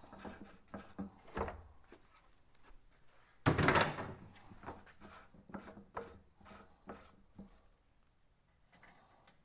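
Knocks and clatter of a cover panel on a Polaris Ranger being unbolted and lifted off, with one louder rattling scrape lasting under a second about three and a half seconds in.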